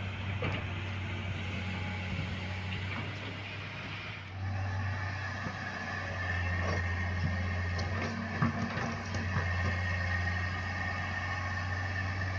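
Heavy vehicle engine running steadily with a low hum. It grows louder about four seconds in, and a few short knocks come near the middle.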